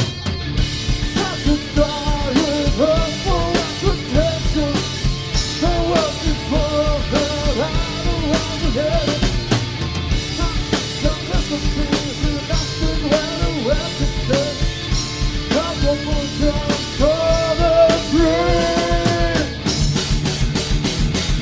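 Live rock band playing, with a steady drum-kit beat under a lead melody line that bends in pitch. The melody drops out near the end, leaving drums and cymbals.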